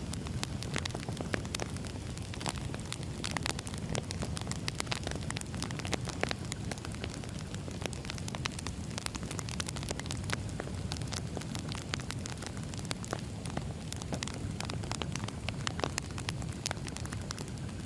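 Firewood burning with a steady low rumble and frequent sharp, irregular crackles and pops.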